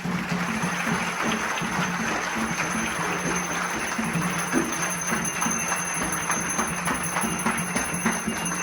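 Percussion music with jingling, shaken bells or rattles, in a dense run of quick strikes over a steady low hum.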